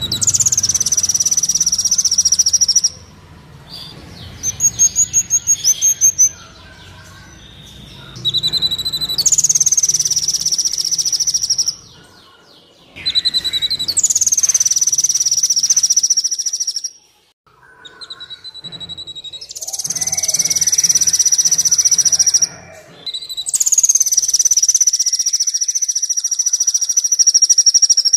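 Kolibri Wulung (a sunbird) song: repeated high, shrill trilling phrases of two to three seconds each, with short pauses between, and a quick run of short chirps a few seconds in.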